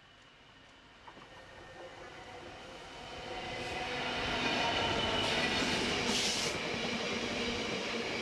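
EMD Class 66 diesel freight locomotive approaching and passing, its two-stroke V12 engine growing steadily louder over the first four seconds. Biomass hopper wagons then run past, with a brief hiss about six seconds in.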